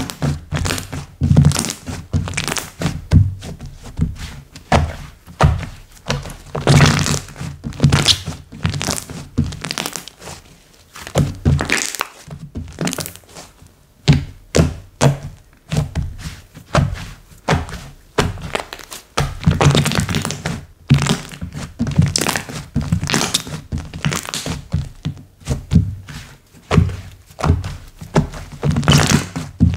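Hands squeezing, folding and poking slime, a dense, irregular run of clicks and soft thuds.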